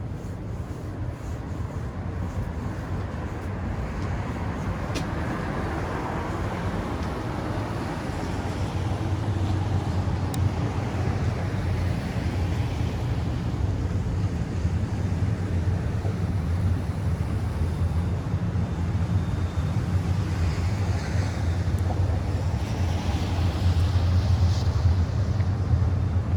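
City street traffic: a steady low engine rumble of vehicles with tyre noise, growing louder about a third of the way in.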